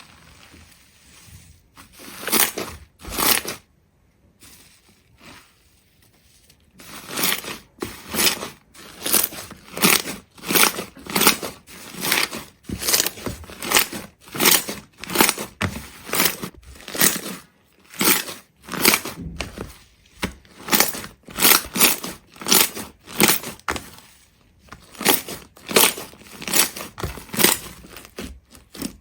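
Repeated crunching strokes, something brittle being crushed or cut: two near the start, then a steady run of about two a second from about seven seconds in.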